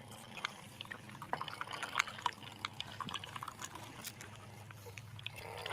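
Toy tractor moving along: a faint low hum with many scattered small clicks and rattles.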